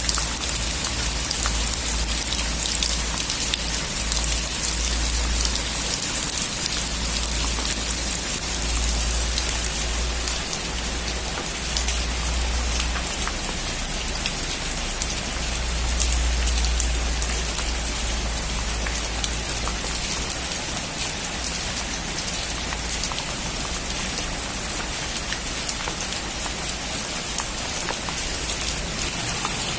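Heavy rain falling steadily on a metal roof, a dense patter of drops with a low rumble beneath.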